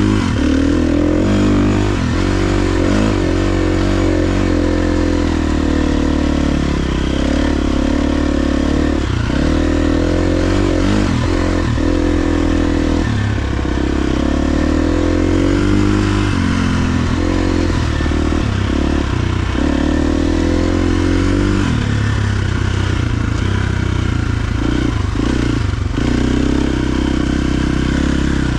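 KTM 350 XC-F dirt bike's single-cylinder four-stroke engine under way, its pitch rising and falling over and over as the throttle is opened and rolled off, with short drops in between.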